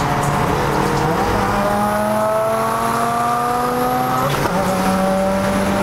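Turbocharged 13B rotary engine of a Mazda RX-7 FD pulling hard under full acceleration, its pitch climbing steadily with a thin high whistle over it. About four seconds in it breaks off for a gear change and starts climbing again from a lower pitch.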